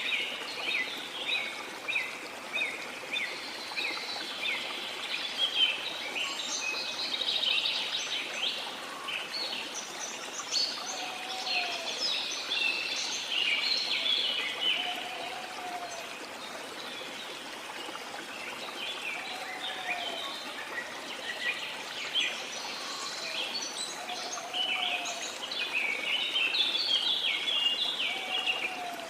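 Tropical rainforest ambience: many birds chirping and singing at once over the steady rush of a waterfall. From about a third of the way in, a short low call repeats about every four seconds.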